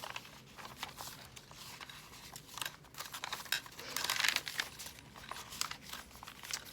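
Paper crinkling and rustling as it is handled, in a run of small sharp crackles, with a fuller rustle about four seconds in.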